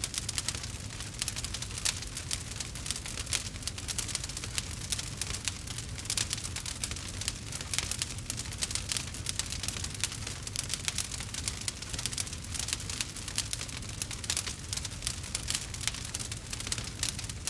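Wood fire crackling in a fireplace: a dense, steady stream of small crackles and pops over a low rumble.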